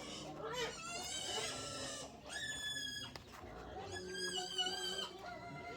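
Pigs squealing: a series of drawn-out, high, wavering squeals, about four in a row.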